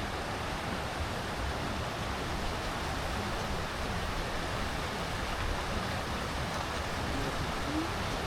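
Steady rushing of flowing water from the hot spring and stream, an even wash of noise without breaks.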